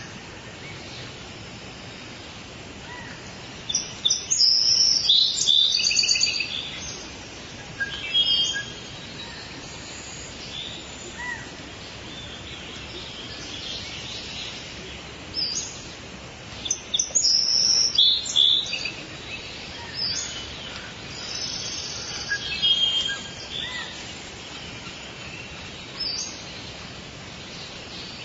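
Several birds calling and singing over a steady forest background hiss, with two louder bouts of rapid high chirps and trills about four seconds in and again around seventeen seconds, and softer calls in between.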